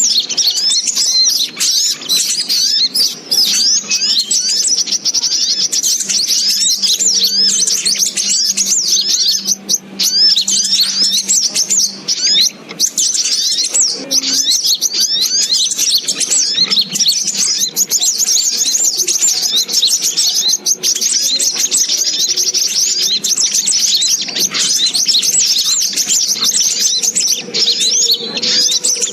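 Dense, unbroken high-pitched chirping of small birds, many rapid notes overlapping: a trapping lure call for the sogok ontong (little spiderhunter).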